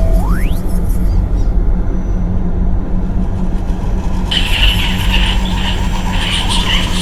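Quad bike running with a steady low rumble. A short rising tone sounds near the start, and a high squealing chatter joins for the last few seconds.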